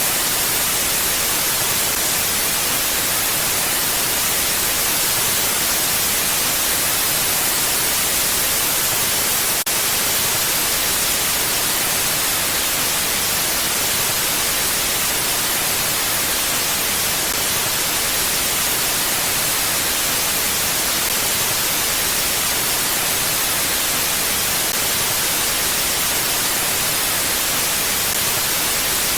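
Mountain wind blowing as a steady, even hiss with no gusts.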